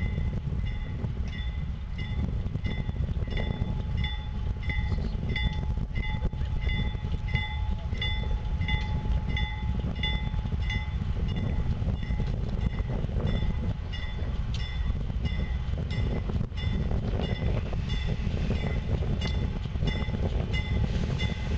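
Diesel locomotive approaching with a steady low rumble, while a railroad warning bell dings evenly about one and a half times a second.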